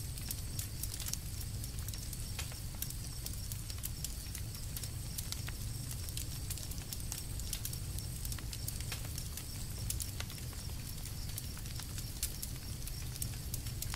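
Wood campfire crackling: many small, irregular sharp pops and snaps over a steady low rumble of the flames.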